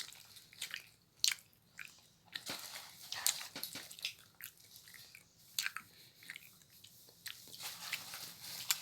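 A person chewing and eating bonde sweets close to the microphone: irregular wet mouth clicks and smacks, some of them sharp.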